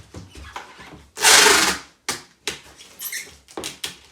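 Adhesive tape pulled off the roll in one long rip about a second in, amid short crackles and taps of tape being pressed onto cardboard.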